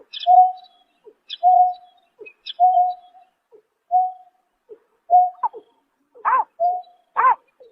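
Greater painted-snipe calling: a steady series of short, low hooting notes about one a second. Near the end come louder notes that swoop up and down in pitch.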